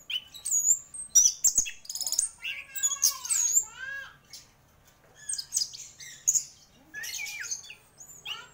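Orange-headed thrush singing a fast, varied song of whistles, rapid trills and harsher notes, with a short break about halfway through.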